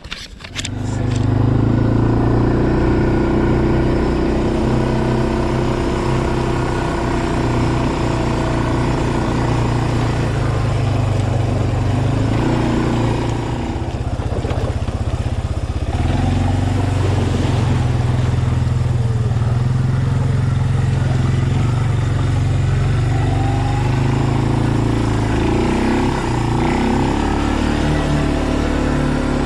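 Motor vehicle engine running at a steady speed while driving, easing off briefly around the middle.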